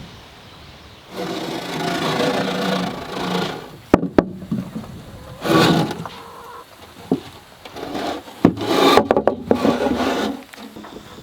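Wood scraping or rubbing in three long noisy strokes, with a few sharp knocks between them.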